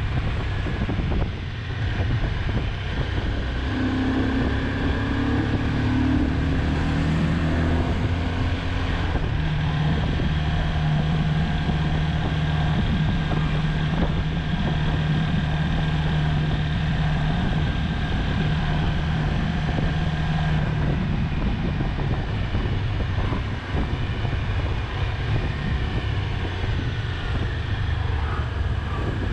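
Honda CBR250R's single-cylinder engine running while the motorcycle is ridden, its pitch stepping up and down a few times, with wind buffeting the microphone.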